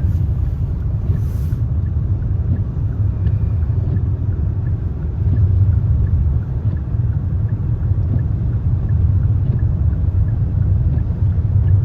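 Car driving, heard from inside the cabin: a steady low rumble of road and engine noise, with faint regular ticks above it.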